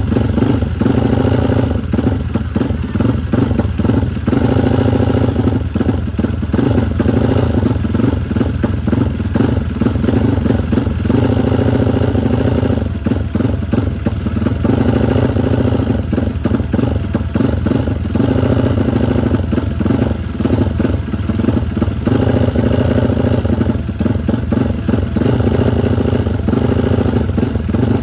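Freshly built Yamaha Vixion race engine, a single-cylinder four-stroke, running loud and fairly steady, with only small rises and dips in speed.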